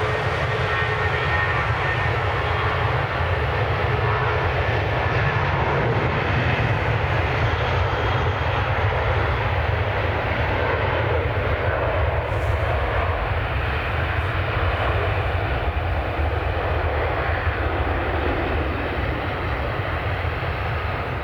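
British Airways Airbus A320 jet airliner departing, its engines giving a loud, steady jet noise with strong deep rumble; the higher part of the sound thins a little near the end as the aircraft draws away.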